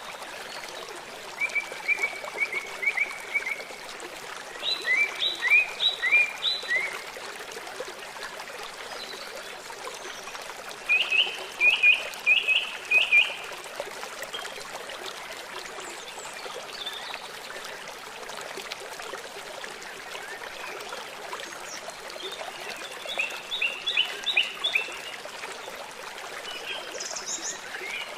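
A songbird singing short phrases of quick repeated chirps, four phrases with long gaps between them and a few high short notes near the end, over a steady rush of running water.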